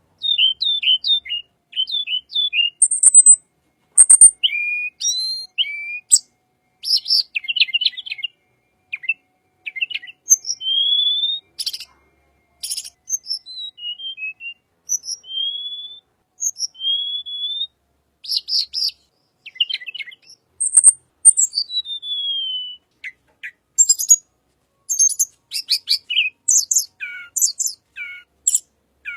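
Tledekan bird singing a varied, fast song of short whistled slurs and glides mixed with high thin chips, quick trills and sharp clicks, in phrases broken by brief pauses.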